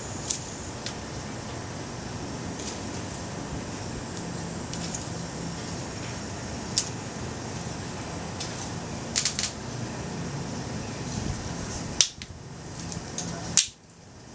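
Scattered sharp strikes of a flint and steel, a few single strikes and a quick cluster, throwing sparks onto hemp twine tinder. The two strikes near the end are the loudest, each followed by a sudden drop in level, over a steady background hiss.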